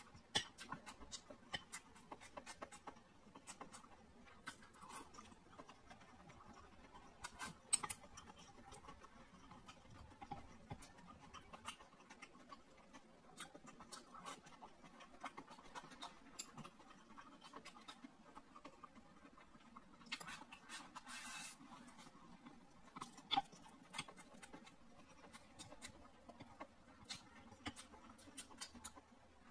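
Faint close-miked eating sounds: a person chewing boiled pork elbow with rice, with frequent small sharp clicks and a brief rustling hiss about two-thirds of the way through.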